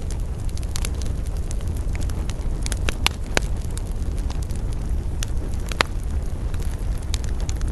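Wood fire in a fireplace crackling: sharp pops and snaps scattered over a low, steady rumble of burning. The loudest snaps come about three seconds in and again near six seconds.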